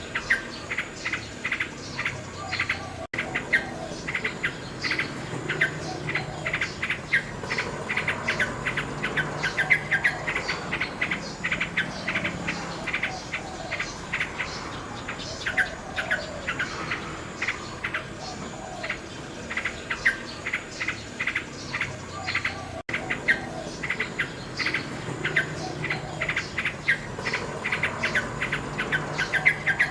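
Nightingale singing, a dense run of fast rattling, clicking and trilled phrases. The sound cuts out for an instant twice.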